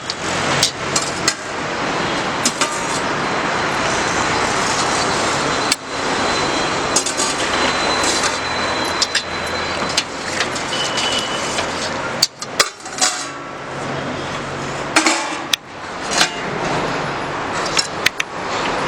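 Steady road traffic noise, with frequent sharp clinks and knocks over it.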